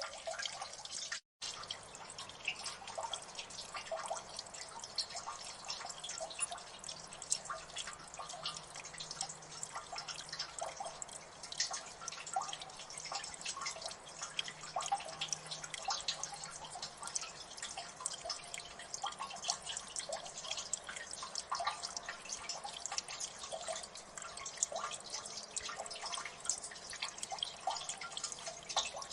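Water dripping in a gully: many small drips a second falling irregularly over a faint, steady wash of water. The sound cuts out for an instant about a second in.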